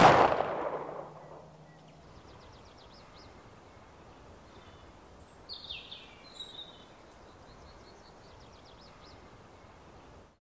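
A loud boom at the start that dies away over about a second and a half, then faint pine-forest ambience with small birds calling: a quick run of ticking notes about three seconds in, a few chirps around six seconds, and another run of ticks near nine seconds. It cuts off to silence just before the end.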